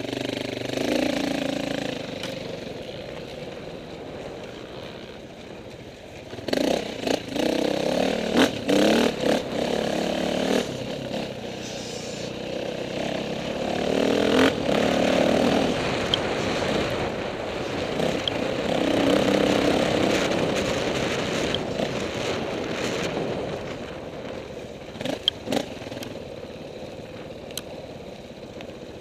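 KTM 450 off-road motorcycle's single-cylinder four-stroke engine being ridden, revving up and easing off in repeated surges, with scattered clicks and knocks.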